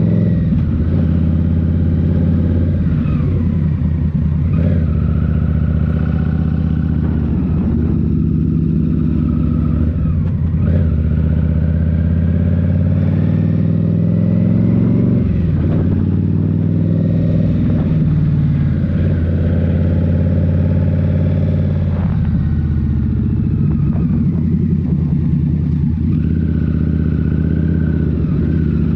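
Indian Scout Rogue's 69 cu-in (1133 cc) V-twin running through a Rinehart slip-on exhaust under way. Its engine speed drops and climbs again several times, around 3, 10, 15 and 22 seconds in, as the throttle is rolled off and back on.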